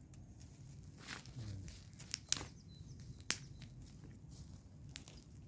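A few scattered sharp clicks and taps over a steady low rumble, the loudest about two and a half seconds and three and a third seconds in.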